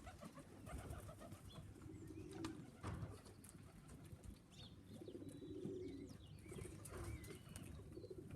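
Domestic pigeons cooing faintly, a few low drawn-out coos, with small birds chirping thinly in the background and a single knock about three seconds in.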